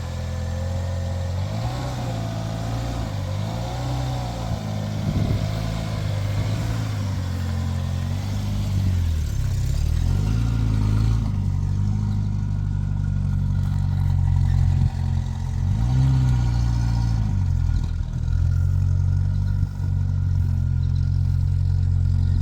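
A car engine running on a drive, its pitch rising and falling several times as it speeds up and changes gear. A wavering higher tone rides over it during the first several seconds.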